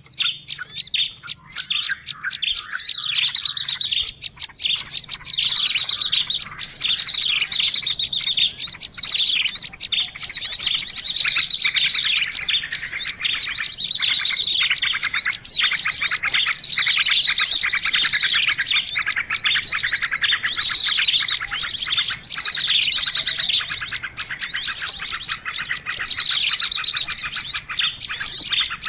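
Dense chorus of many small songbirds chirping and trilling at once, calls overlapping without pause: a bird-lure recording used to attract small birds.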